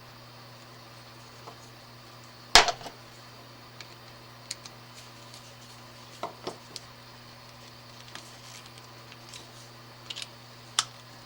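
Scattered clicks and taps of small parts being handled while electrical wires are connected in an outlet box, with one sharp knock about two and a half seconds in. A steady low hum runs underneath.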